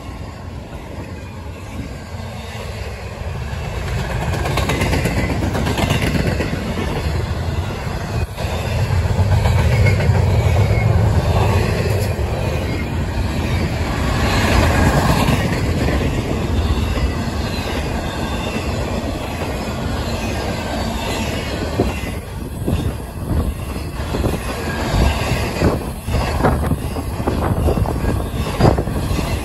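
Intermodal freight cars of a CSX train rolling past close by: a steady rumble and clatter of steel wheels on the rails, loudest around ten to fifteen seconds in. Near the end come more separate sharp clanks and clicks.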